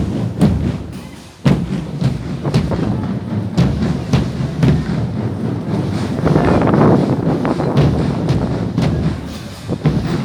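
Drums beating a steady beat, about one stroke a second, over a dense low background rumble.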